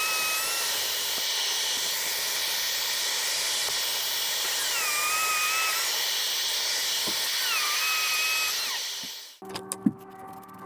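A handheld power tool running steadily with a hissing whir, then cutting off suddenly near the end. A faint whine in it dips in pitch and levels out three times.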